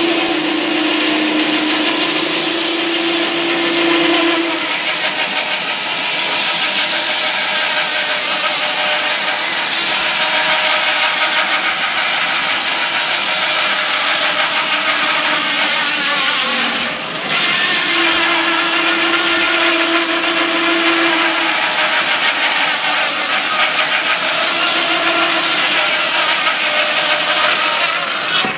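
Sawmill running, with a steady loud rushing noise of the saw at work and a humming tone during the first few seconds and again about two-thirds through. There is a brief break in the sound just after the middle.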